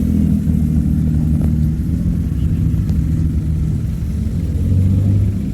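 Car engine and exhaust rumbling low and steady close by, with a deeper note swelling about four and a half seconds in.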